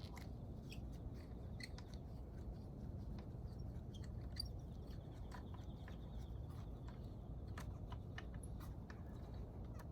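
Light, irregular clicks and taps of hand tools and small metal engine parts being handled during a motorcycle engine top-end teardown, over a steady low hum.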